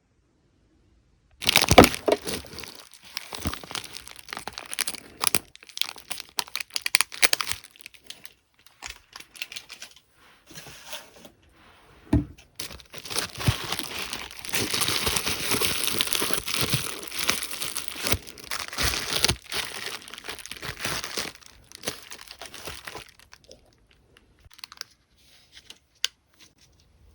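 Plastic packaging crinkling and tearing in irregular bursts, with a long continuous stretch of crinkling in the middle that dies away near the end.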